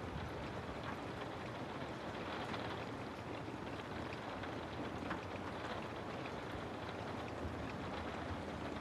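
Steady rain falling, a dense even hiss with scattered drops ticking.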